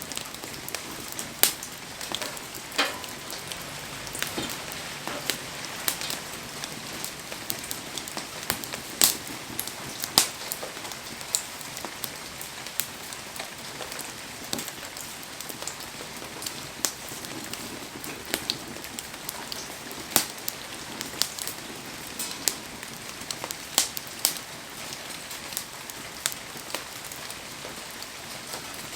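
Heavy rain falling steadily around a burning wood campfire: an even hiss with frequent sharp clicks and pops scattered irregularly through it.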